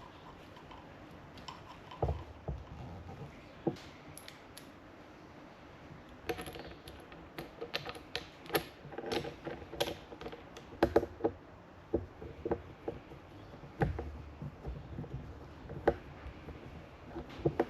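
Small metal parts and hand tools clicking and clinking in irregular bursts, with a couple of dull knocks, as a brake light switch is fitted to a motorcycle's brake master cylinder.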